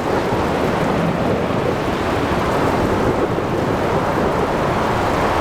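Storm at sea: a steady, dense rush of rain, wind and breaking waves over a continuous low rumble of thunder, with no sharp thunderclap.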